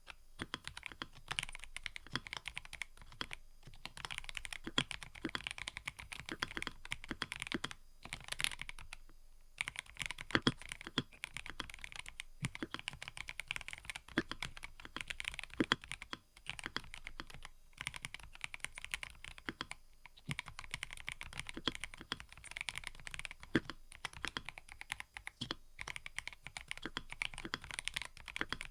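Typing on a mechanical keyboard: a continuous, irregular run of key clacks, with brief pauses every few seconds.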